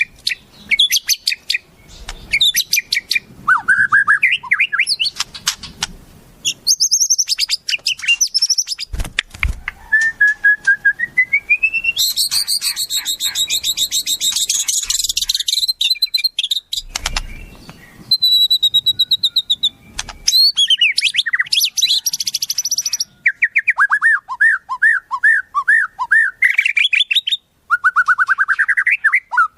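Wild songbird song in a fast run of varied phrases: quick high trills, rising whistled glides, a dense high chatter, and strings of rapidly repeated notes, broken by short pauses.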